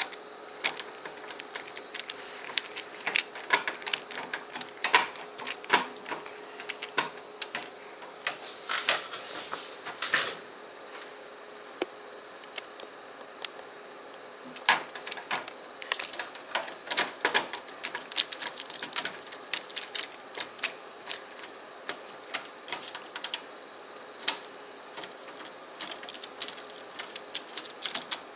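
Screws being driven to mount a computer case fan: a screwdriver makes irregular sharp clicks and short scraping runs against the screws, fan and case. A steady hum runs underneath.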